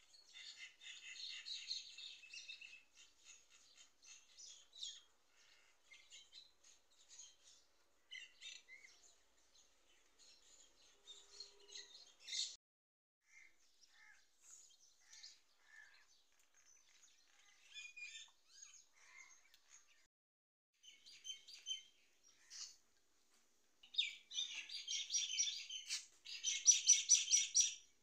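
Small birds chirping and twittering in short high-pitched calls throughout, with dense chattering bouts at the start and a louder bout near the end.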